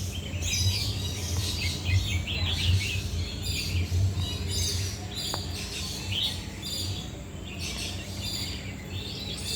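Birds chirping in many quick, short notes, likely including red-whiskered bulbuls, over a low steady hum.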